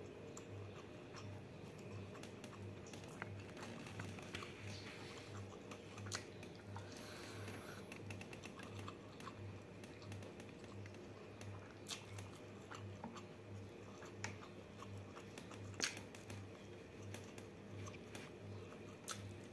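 Close-up eating sounds: chewing with soft mouth smacks and small clicks, and fingers squishing rice and prawns, with one sharper click about three-quarters of the way through. A faint low hum pulses about twice a second underneath.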